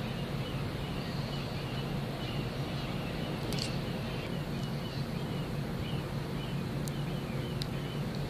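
Steady low hum of a large ship's machinery with outdoor wind noise, while a small bird repeats a short high chirp about twice a second.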